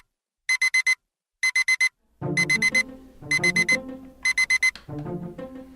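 Electronic alarm clock beeping in rapid groups of four, five groups about a second apart. Music comes in underneath about two seconds in.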